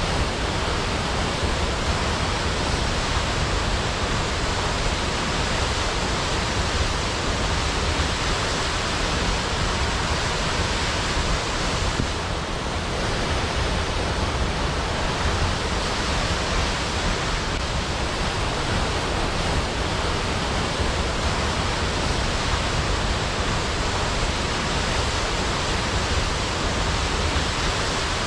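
Waterfall, water falling in a steady, even rush.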